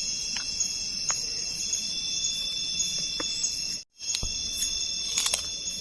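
Night-time chorus of crickets and other insects in the forest: a steady, high-pitched trilling of several overlapping tones, with a few faint clicks. The sound cuts out completely for a moment about four seconds in.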